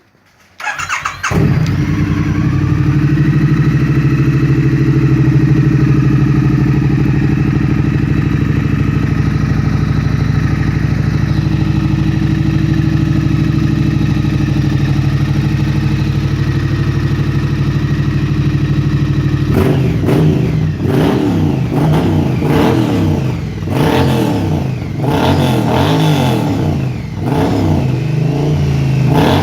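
Triumph Street Twin's 900 cc parallel-twin engine, exhaling through stock silencers with the baffles drilled out, starts about half a second in and idles steadily. From about twenty seconds in it is revved in a series of quick throttle blips.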